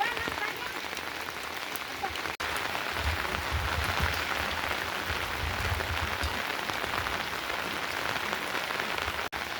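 Steady rain falling, a continuous hiss dotted with many small drop ticks. A low rumble sits under it for a few seconds in the middle.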